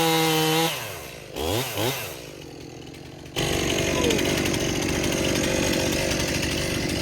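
Two-stroke chainsaw running at high revs, its pitch dipping and recovering; under a second in it drops off the throttle, sweeps down and up in pitch twice, and goes quiet. About three and a half seconds in, a steady loud chainsaw sound starts abruptly and runs on.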